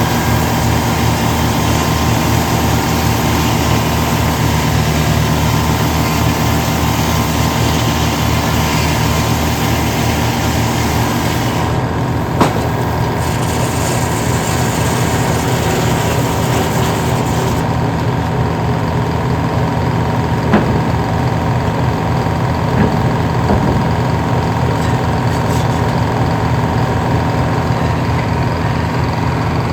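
Engine running steadily at an even speed, taken here for the power unit of an old circle sawmill. A few brief sharp knocks come through around the middle.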